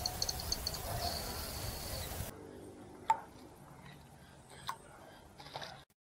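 Outdoor garden background with a quick run of short, high chips from a small bird in the first second and a thin high note after them. About two seconds in the sound drops suddenly to near quiet, with two faint clicks, then cuts off near the end.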